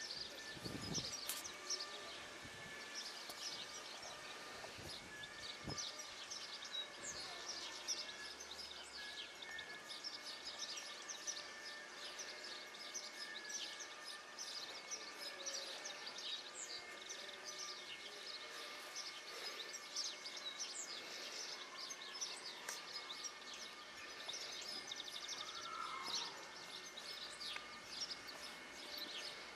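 Birds chirping, with many short high calls throughout, over a steady faint outdoor background noise.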